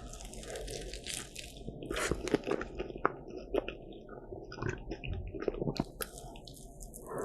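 Biting into a crisp croffle (croissant waffle) and chewing it. There is a crunchy bite near the start and another near the end, with wet chewing clicks between.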